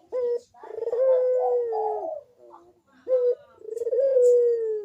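Barbary dove (puter) cooing: two calls, each a short note followed by a long drawn-out note held at an even pitch.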